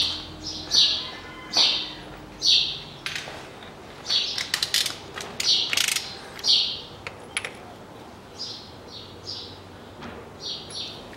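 A small bird chirping repeatedly, short high chirps about once a second, with a brief cluster of clicks near the middle.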